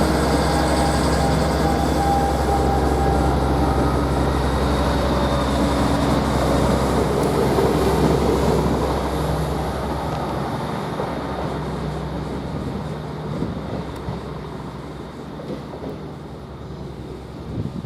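Class 158 diesel multiple unit pulling out of the station, its engines running steadily under power and then fading gradually as it draws away during the second half.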